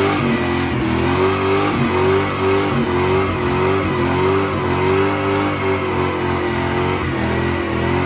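Car engine revved and held at high rpm, its pitch wavering up and down steadily.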